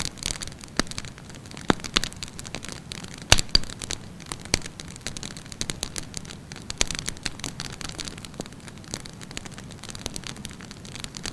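Wood campfire burning, with irregular sharp crackles and pops over a steady hiss; one loud snap about a third of the way through.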